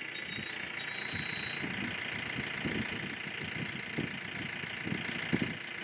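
A vehicle engine idling with an uneven low rumble, under a steady high hiss.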